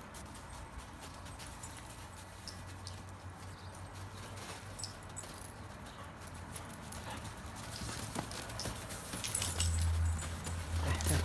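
Dogs playing: their feet scuffling, knocking and clicking on the floor in scattered light steps, getting louder near the end.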